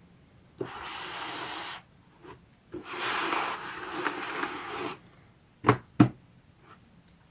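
Unboxing handling noise: two stretches of rubbing and sliding against packaging, then two sharp knocks about a third of a second apart near the end.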